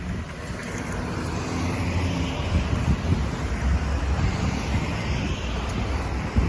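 Road traffic noise with wind rumbling on the microphone, a steady roar with no distinct events.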